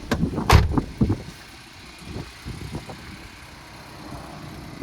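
A few sharp clunks and knocks in the first second, the loudest a heavy thump about half a second in. Under them, a 2019 Chevrolet Colorado's engine idles steadily.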